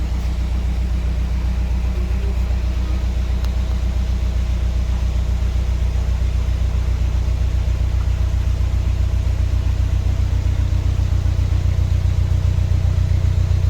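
Small canal boat's inboard engine ticking over at idle, a steady low chugging with a fast even beat. It grows slightly louder near the end.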